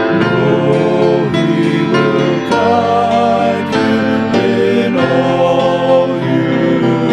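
A slow hymn sung with keyboard accompaniment, the chords changing about once a second.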